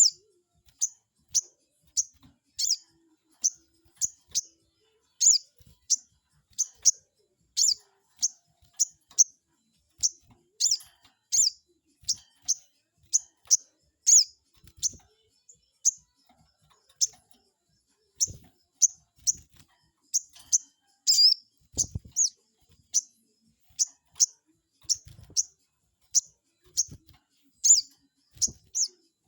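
Sogon bird calling: short, sharp, high chirps repeated about one and a half times a second, some in quick pairs, a provoking call used to make a rival bird answer. A few faint low thumps come in about two-thirds of the way through.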